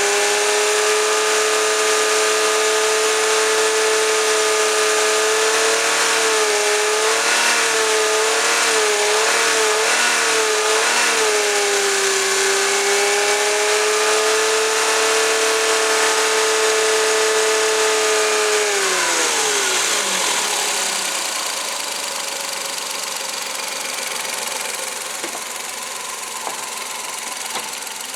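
Suzuki K6A three-cylinder engine running, with a loud steady whine that wavers up and down in pitch for a few seconds. About 19 seconds in the whine winds down and dies away, leaving a quieter, even engine noise.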